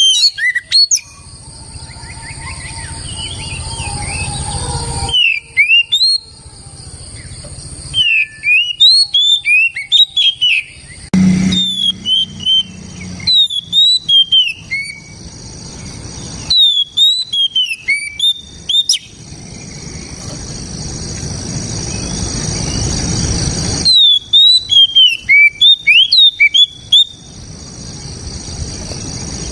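An oriental magpie-robin sings loud phrases of quick, clear whistled notes that sweep up and down. The phrases come every few seconds, with a background hiss between them.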